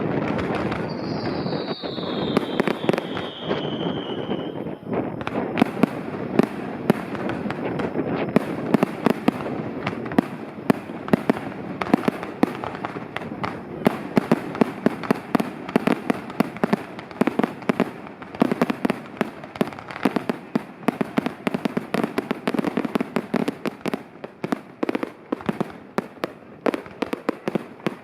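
Fireworks display going off in rapid succession: a dense run of sharp bangs and crackles that grows busier after the first few seconds. Early on, a whistle falls steadily in pitch over about three seconds.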